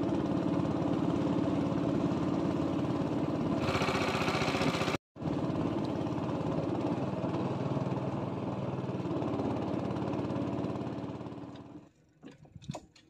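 Small motorboat engine running steadily, with a brief dropout about five seconds in. Near the end it stops and a few light clicks follow.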